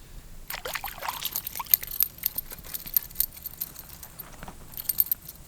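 Water splashing and dripping, with a quick run of sharp clicks and rattles starting about half a second in: a freshly caught fish being lifted out of the water.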